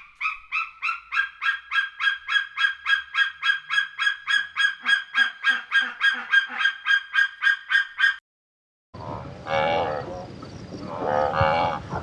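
A goose honking in a fast, even series, about four honks a second, for about eight seconds. After a short break, a different animal starts calling in a lower, wavering voice.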